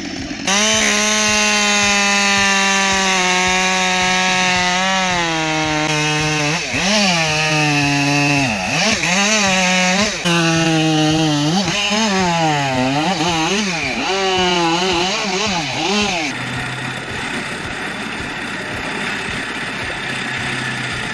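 Chainsaw running at high revs, its pitch dipping and recovering again and again as the chain bites into wood under load. For the last few seconds it settles to a lower, steady running pitch.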